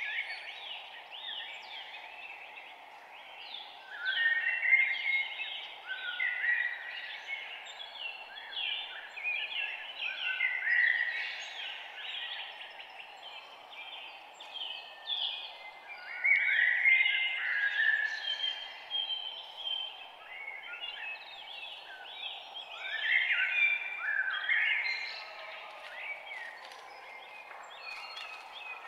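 A dawn chorus of several songbirds, quick overlapping chirps and trills coming in bursts every few seconds, over a steady low background hiss.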